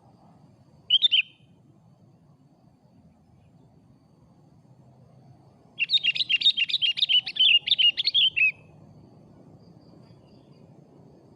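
Sooty-headed bulbul (kutilang) calling: one short call about a second in, then a quick run of chirping notes lasting nearly three seconds from about halfway through.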